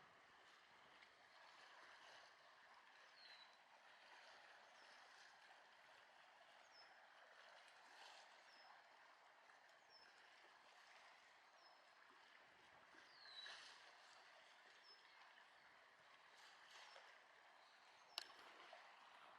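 Faint, steady wash of water with small birds giving short high chirps every second or so, and one sharp click near the end.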